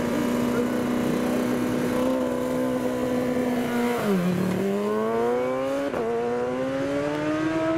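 Racing superbike engine at high revs. The pitch is held steady, then drops sharply about four seconds in and climbs again, with a quick gear change about a second later before it climbs once more.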